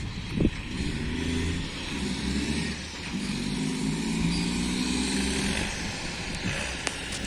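Mack truck diesel engine pulling under load. Its pitch drops about halfway through, then climbs again, as at a gear change. A short thump comes about half a second in.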